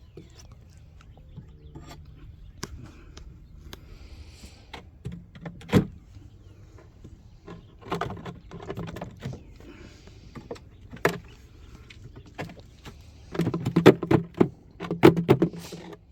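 Wooden beehive frames and boxes being handled and pried apart: scattered knocks, clicks and scrapes, with a quick run of louder knocks and scraping near the end.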